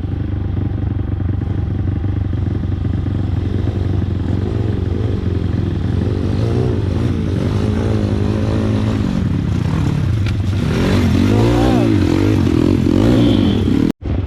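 Single-cylinder pit bike engine running under riding, revving up and down repeatedly as the throttle is worked, with a stronger rising-and-falling rev about two-thirds of the way in.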